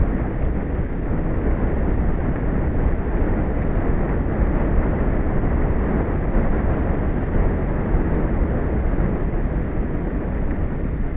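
Steady wind noise on an outdoor microphone: a constant rush with a fluttering low rumble.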